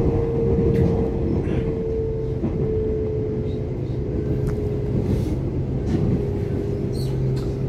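Inside an electric commuter train running along the track: a steady rumble of wheels on rail with a motor whine that slowly drops in pitch as the train slows.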